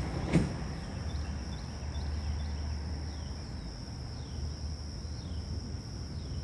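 Steady high-pitched insect drone, with a run of short falling chirps about every half second. A single sharp knock comes about half a second in, over a low rumble.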